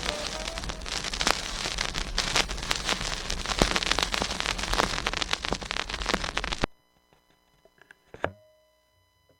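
Dense crackling hiss full of sharp clicks, like rain or static, that cuts off suddenly about two-thirds of the way through. This is followed by near silence with one faint thump and a brief tone near the end of the recording.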